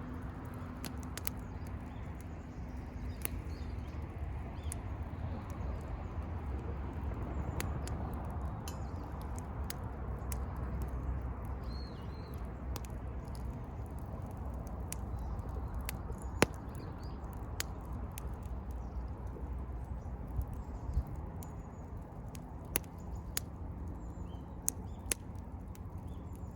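Wood bonfire crackling: burning firewood giving off scattered sharp pops and snaps at irregular intervals, the loudest pop about sixteen seconds in, over a steady low rumble.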